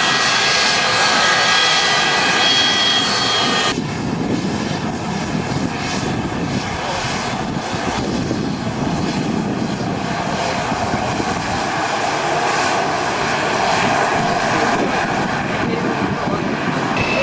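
Aircraft engines running loudly at an airport. High whining tones sit over the engine noise for the first few seconds. Then the sound changes abruptly to a steadier rush without the whine.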